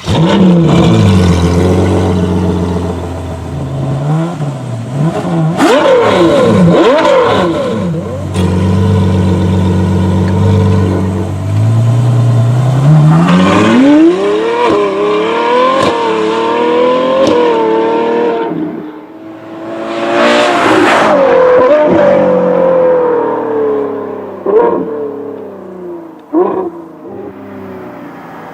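Ferrari 812 Superfast's naturally aspirated V12 through an FM Performance sport exhaust: it settles to a low steady run, blips the throttle a few times, then pulls hard with rising pitch through several upshifts, revs up once more and drops away. A couple of sharp pops sound as it comes off the throttle near the end.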